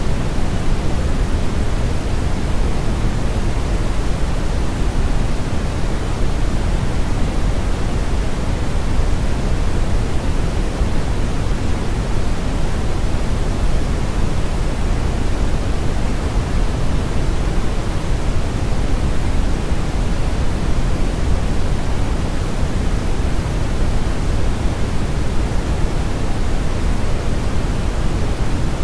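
Steady synthetic brown noise: a constant, even rush weighted heavily toward the bass, with the highs rolled off, like a deep river current.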